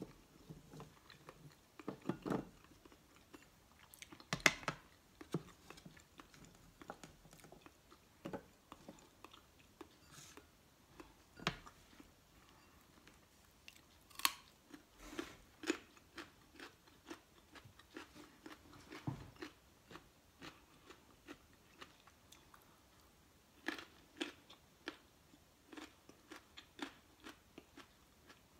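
Raw carrot sticks being bitten and chewed: irregular crisp crunches, the loudest about four and fourteen seconds in.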